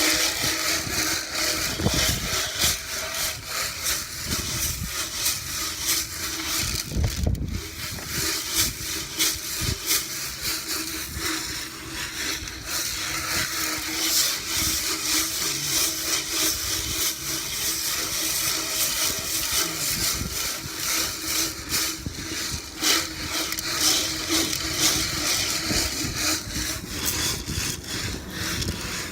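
Steel gas tank of a 1977 Yamaha DT100 being shaken with BBs and gasoline inside to scour out rust: a dense, continuous rattle and scrape of the BBs against the tank walls, with a brief pause about seven seconds in.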